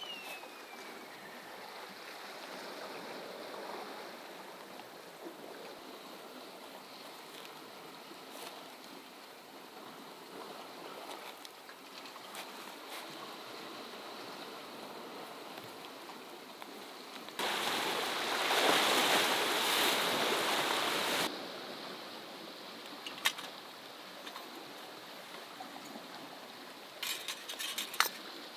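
Sea waves washing over shore rocks, steady. About seventeen seconds in, a loud rushing noise lasts about four seconds, and near the end come a few light clinks.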